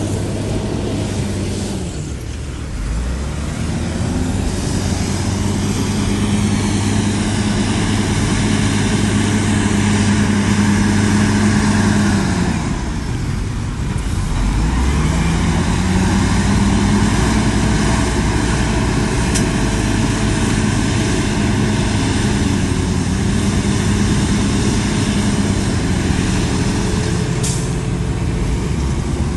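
Diesel engine of a heavy earthmoving machine working under load, running steadily with its pitch sagging and then picking up again twice, about two seconds in and again around thirteen seconds in.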